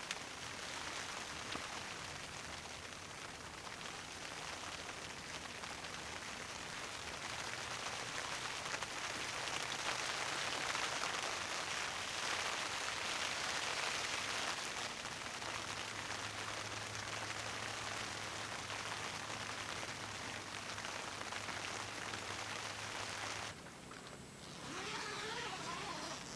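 Heavy rain falling, a steady dense hiss that swells toward the middle and then drops off suddenly a few seconds before the end, leaving a few faint whistle-like glides.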